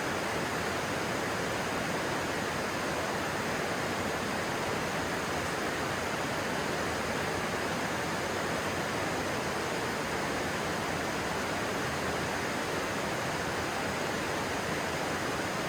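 Stream water rushing steadily, an even continuous noise with no change in level.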